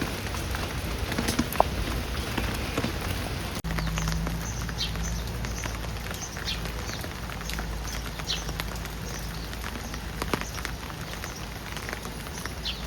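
Steady rain falling, with single drops spattering close by. The sound shifts abruptly about a third of the way through, as between two takes of the rain.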